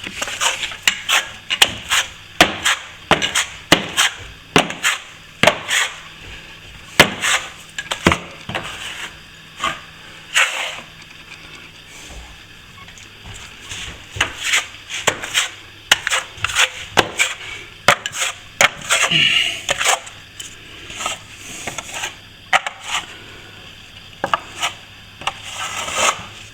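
Plastering trowel scraping and clacking against plaster and tools in sharp, irregular strokes, one or two a second with a couple of short pauses, as a second coat of plaster is put on.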